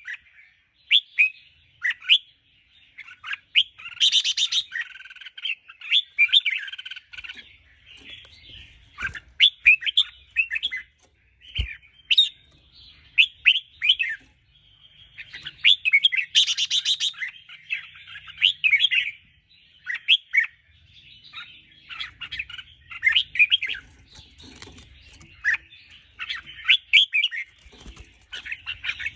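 Red-whiskered bulbul singing: a run of short, quick whistled phrases repeating every second or so, with a harsher buzzy note about four seconds in and another around sixteen seconds.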